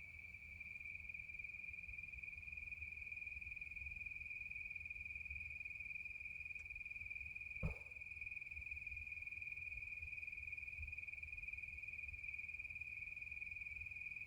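Crickets trilling in a steady, unbroken high chorus in the night woods, with a single brief knock about halfway through.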